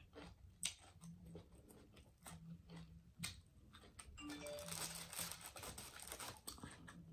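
Faint close-up mouth sounds of chewing chicken wings, with a few sharp clicks. About four seconds in, a couple of seconds of rustling as a hand picks a wing off the platter.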